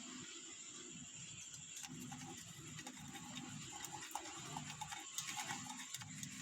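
Faint low calls from a pet bird, with scattered light clicks and taps, most of them from about five seconds in.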